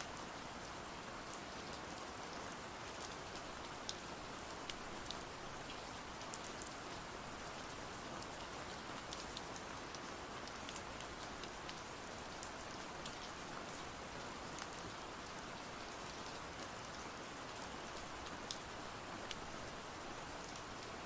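Steady rain falling, an even hiss with many scattered sharp ticks through it.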